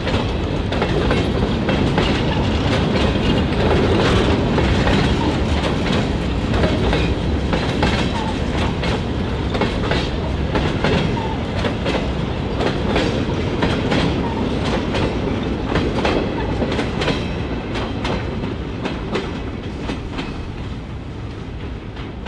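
A freight train's cars rolling past, steel wheels clicking over the rail joints in a steady clickety-clack that eases off slightly near the end.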